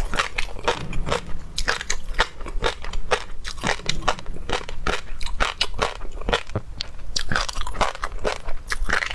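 Close-miked chewing and biting of seafood (shrimp and octopus), a fast, uneven run of clicks that goes on without a break.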